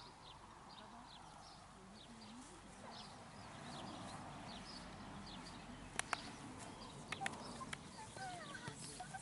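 Small birds chirping here and there, with a few sharp clicks about six and seven seconds in.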